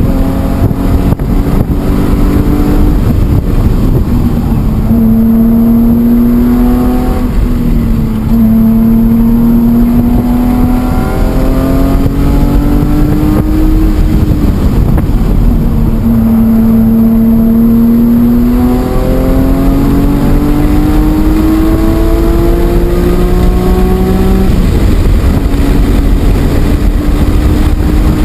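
BMW E46 M3's S54 straight-six running hard on track, its note climbing steadily through each gear and dropping at the changes and under braking, several times over.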